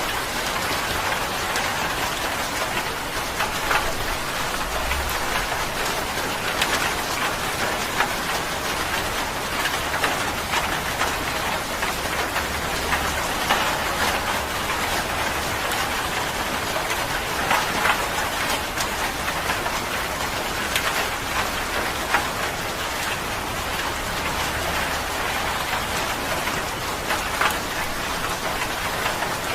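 Steady rain falling, an even hiss dotted with many separate drop impacts, with a faint low rumble now and then.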